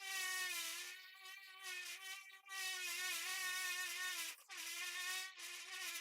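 Small electric power tool motor running with a steady high whine, dropping out briefly two or three times.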